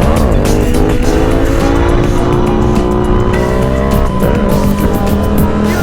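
Yamaha MT-07 (FZ-07) 689 cc parallel-twin engine pulling under acceleration: its note climbs steadily over the first few seconds, then dips briefly and picks up again about four seconds in.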